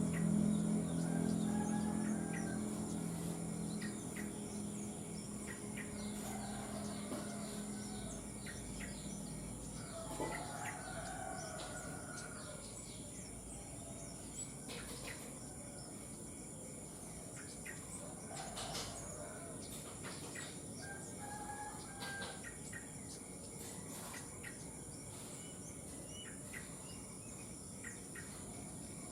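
Early-morning outdoor birdsong: roosters crowing in the distance several times, with short bird chirps scattered throughout and a steady high insect whine. A low hum fades out over the first several seconds.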